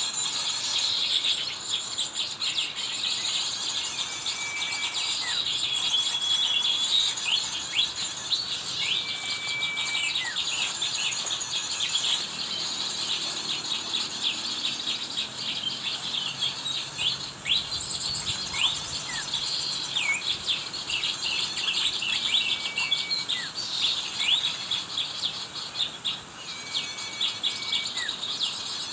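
Many small wild birds chirping in quick, dense short calls, with a clear level whistled note every few seconds.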